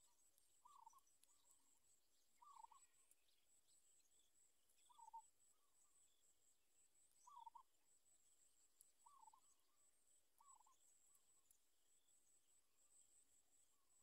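Six short, faint bird calls, low-pitched for a bird, spaced about two seconds apart, over a faint steady high-pitched chirring.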